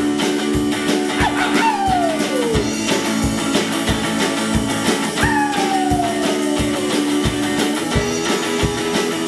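Rockabilly band's instrumental break: guitar playing over a steady beat, with two long downward slides.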